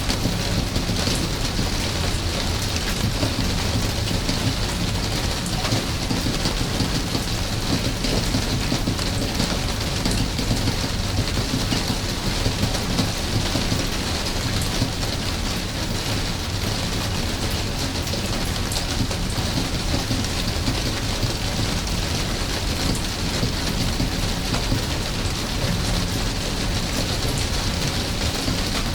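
Steady rain falling on surfaces: an even hiss with fine scattered drop ticks.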